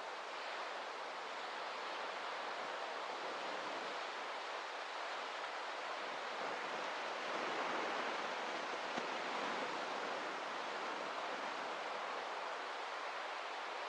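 Steady rushing water with a gentle swell about halfway through.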